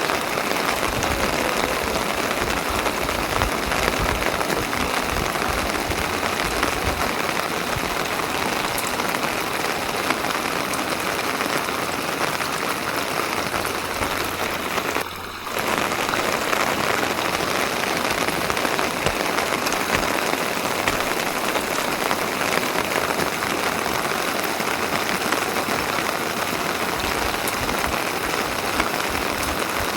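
Rain falling steadily, a dense even patter, with a brief drop in level about halfway through.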